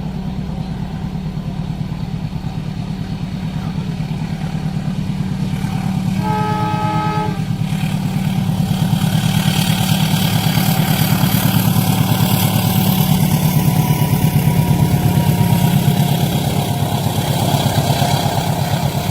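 A train's horn sounds one blast of a little over a second about six seconds in, then the train passes through the level crossing, its rumble and wheel-on-rail noise swelling to a peak and easing near the end, over a steady low engine drone.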